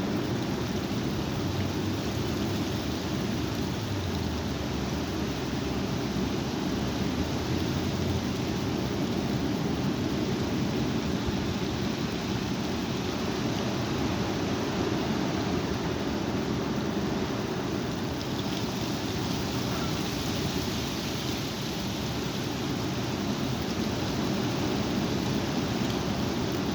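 Strong wind blowing steadily, a low rushing noise that does not let up.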